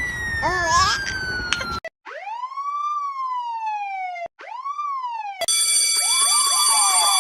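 Police sirens, several short clips in a row. First a siren tone glides slowly down and cuts off. Then come two wail cycles, each sweeping up fast and sinking slowly. From about two-thirds of the way in, a fast repeating yelp sounds over a steady buzzing tone.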